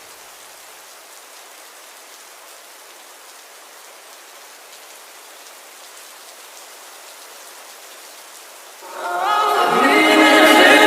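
A steady hiss of rain. About nine seconds in, louder sped-up, layered vocal notes come in over it, a wordless sung intro to a nightcore vocals-only edit.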